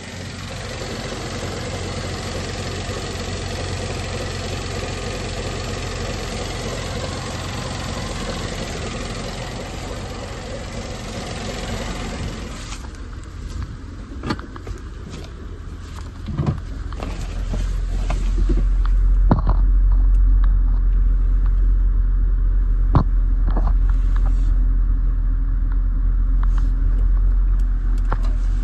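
Engine of a 2017 Chevrolet Traverse, a 3.6-litre V6, running steadily at idle. About halfway through, the higher hiss falls away, a few sharp knocks are heard, and then a deeper, louder steady rumble takes over.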